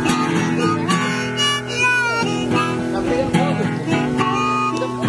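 Improvised acoustic blues: a guitar strummed in rhythm with a harmonica playing over it, its held notes bending and wavering about two seconds in.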